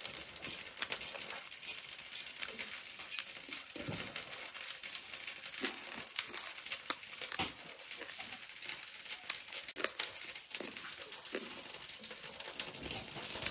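Close-up chewing of crisp fried food, irregular small crunches and crackles.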